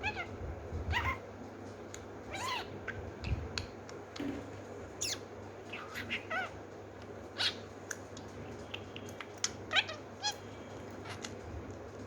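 Small pet parrot, called a lovebird, making a string of short, high chirps and squeaks that sweep up and down in pitch, some in quick little clusters, at irregular intervals.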